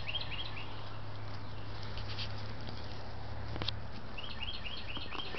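A bird singing a quick run of short, repeated high chirps, about four a second, breaking off just after the start and starting again about four seconds in, over a steady low hum. A single sharp click near the middle.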